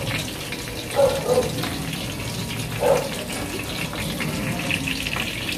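Chicken pieces frying in oil in a covered pan, a steady muffled sizzle under the glass lid as they brown. Two brief low sounds come about a second and three seconds in.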